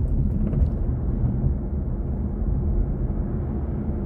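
Steady low road and tyre rumble of a BMW i4 M50 electric car driving, with no engine note.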